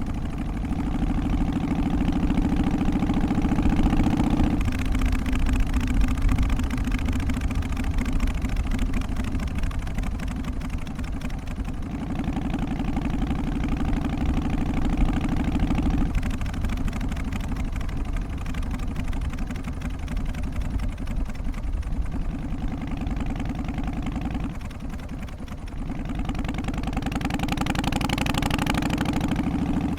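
Harley-Davidson Twin Cam 88 air-cooled V-twin engine running steadily, with three louder, fuller stretches: at the start until about four seconds in, from about twelve to sixteen seconds, and again near the end.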